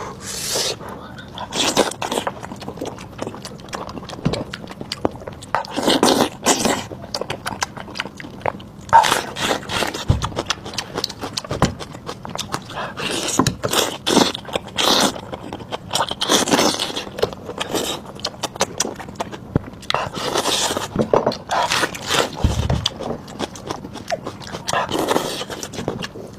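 Close-miked eating sounds: chewing and biting in irregular bursts, with many sharp clicks.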